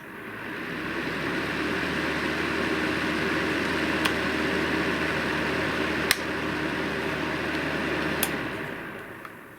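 Aceline FH 2000B electric fan heater's fan spinning up just after a click, running steadily, with three sharp clicks about two seconds apart, then winding down near the end.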